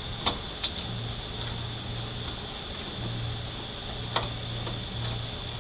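A few sharp metal clicks and clinks, the loudest about four seconds in, as a steel spring-compressor tool is set in place on an automatic transmission, over a steady hiss and low hum.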